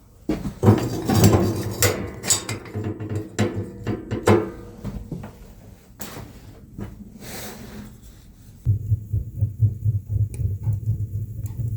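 Knocks, clatter and scraping of hard objects being handled, several sharp knocks among them; then from about nine seconds a low, pulsing rumble.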